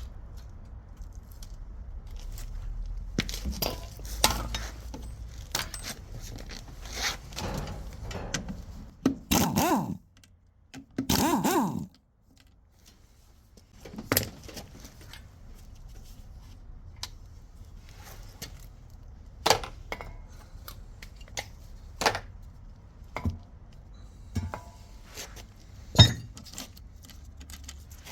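Steel gearbox parts (gears, synchronizer rings and sleeves) clinking, scraping and knocking against each other and the bench, with two louder rattling stretches of about a second each near the middle and a sharp metallic knock near the end.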